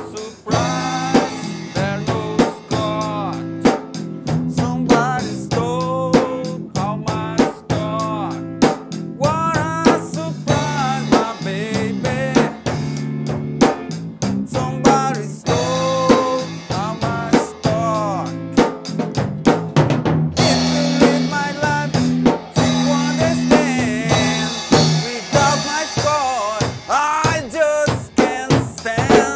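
Rock band playing with a drum kit keeping a steady beat, sustained bass and chords underneath, and a lead line above that bends and wavers in pitch.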